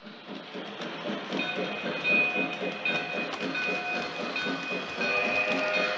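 Model train running on a layout, a fast, even rhythmic beat with a steady high tone joining about a second and a half in.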